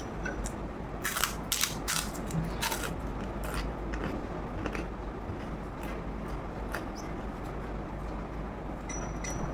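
Close-up eating sounds: a scatter of short clicks and crunches from chewing and handling food, busiest in the first few seconds, over a steady low hum.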